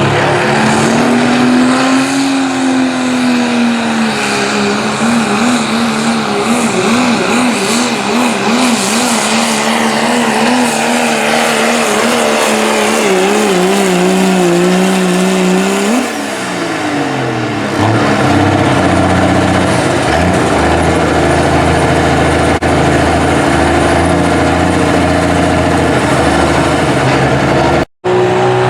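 Diesel 4WD pulling truck running flat out under load, its engine note climbing and then wavering rapidly up and down as the truck bounces against the sled. About sixteen seconds in the revs drop sharply, and a lower, steadier engine sound follows.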